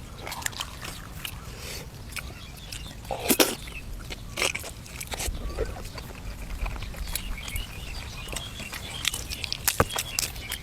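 A person eating: biting and chewing braised duck and raw vegetables, with wet smacking mouth sounds and scattered crunches, the loudest of them about three and a half seconds in.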